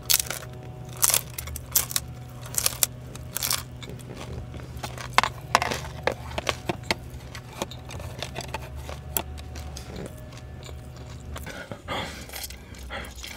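Close-miked crunching and chewing of a fried dumpling, with sharp crunches coming irregularly about every second. A steady low hum runs underneath and stops near the end.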